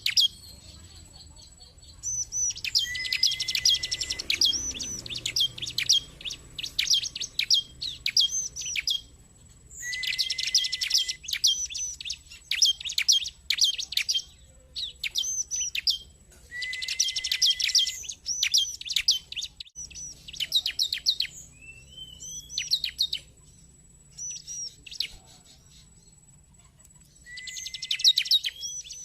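Bar-winged prinia (ciblek) singing in repeated bursts of a few seconds each: rapid high chirping phrases, several opening with a short lower flat note, with pauses of a second or two between them.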